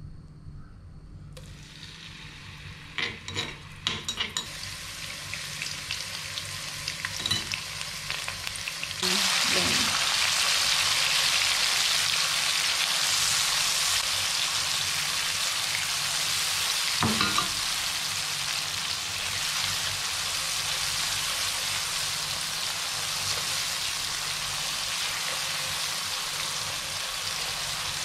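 Hot oil in a non-stick wok hissing faintly, with a few light knocks, until about nine seconds in a pounded shallot-and-garlic and blended-chili paste starts frying in a loud, steady sizzle. It is stirred with a silicone spatula, with an occasional knock of the spatula on the pan.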